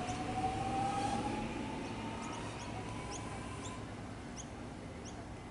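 Three-car suburban electric train pulling away, its motors giving a whine that rises slowly in pitch and fades over about four seconds as the train leaves. Short high chirps repeat throughout.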